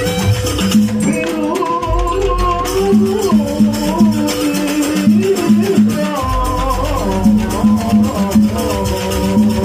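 Jaranan gamelan music played live: a wavering melody over a held tone and an evenly repeating beat of percussion, with rattling metal among it.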